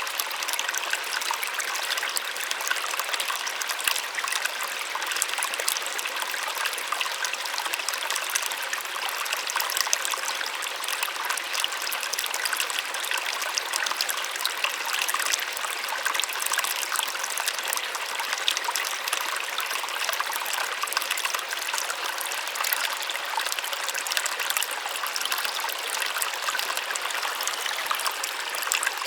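Small waterfall splashing, a steady hiss of falling water with fine crackle and little low rumble.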